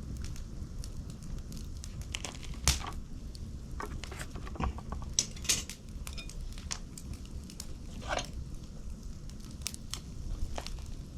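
Wood fire crackling, with scattered sharp pops and snaps over a low steady rumble.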